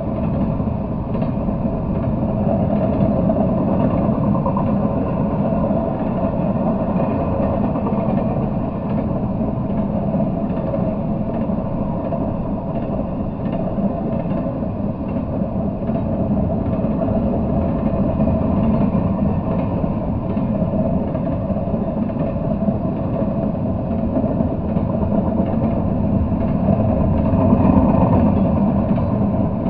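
Double-stack intermodal freight train passing close by: a steady rumble of steel wheels on the rails. It swells slightly near the end.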